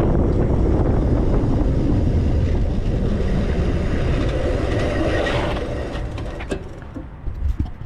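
Wind and road rumble from riding an e-bike: a steady low rumble that dies away over the last couple of seconds, with a few sharp knocks near the end.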